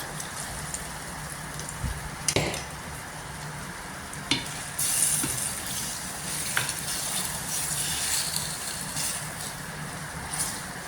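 Food sizzling in a frying pan as it is stirred, with a few sharp knocks of a utensil against the pan; the sizzle gets louder about five seconds in.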